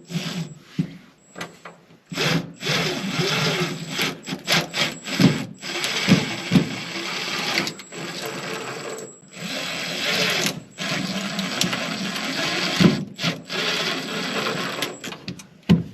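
Power drill driving screws through a metal hinge into a wooden deck board. It runs in bursts, stopping briefly about nine seconds in and again about ten and a half seconds in, with clicks between runs.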